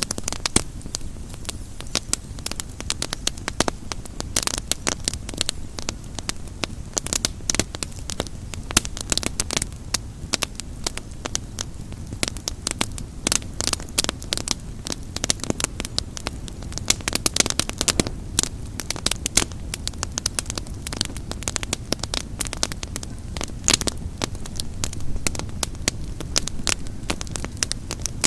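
Wood campfire crackling steadily, with many irregular sharp pops and snaps over a low steady rumble of burning.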